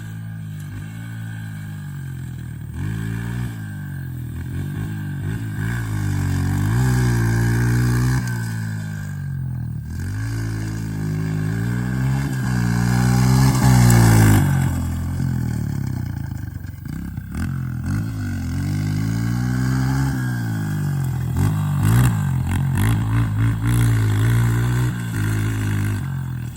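Honda CRF dirt bike being ridden, its four-stroke engine revving up and down over and over as the throttle is worked and gears change. It is loudest about halfway through.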